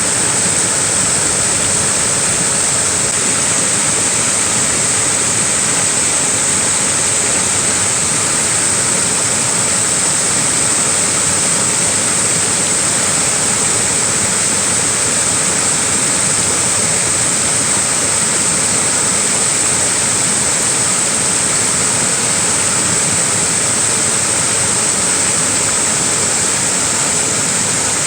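Small waterfall with water rushing and splashing in a steady, unbroken hiss, strongest in its high, bright part.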